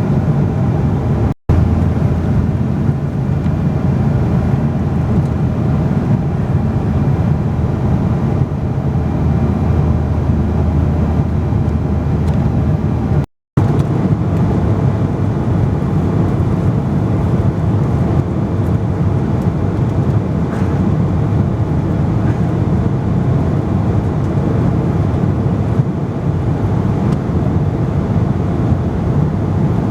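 Steady cabin noise of a Boeing 777-200ER in cruise, heard from inside the cabin: a deep, even rumble of airflow and engines. It drops out briefly twice, about a second and a half in and near the middle.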